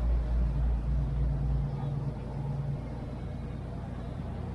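Low engine rumble that drops off about two seconds in, leaving a quieter, steady drone.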